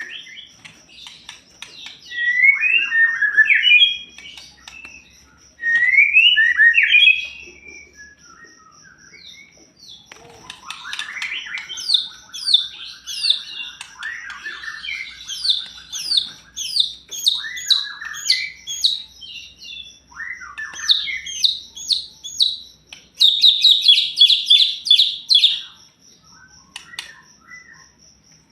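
White-rumped shama (murai batu) singing: loud varied whistled phrases, then a long run of quick repeated downslurred notes, and a fast rattling chatter near the end.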